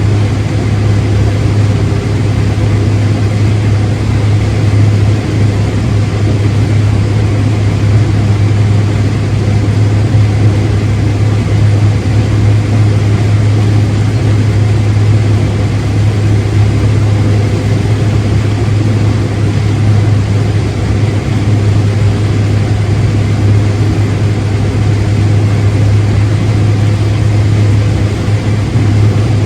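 Heavy farm-machinery diesel engine running steadily under even load, with a strong constant low hum.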